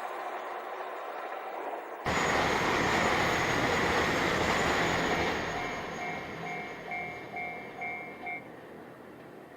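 Diesel train passing over a level crossing: its rumble and wheel noise turn suddenly loud about two seconds in, with a high thin whine on top, then fade. As it goes, the crossing alarm rings about twice a second and stops near the end.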